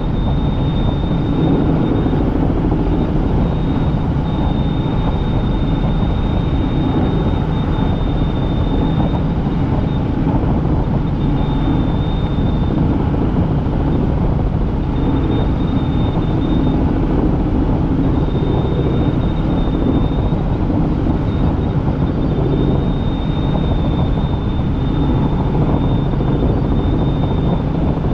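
Helicopter in flight: steady, loud rotor and engine noise, with a thin high whine that fades in and out.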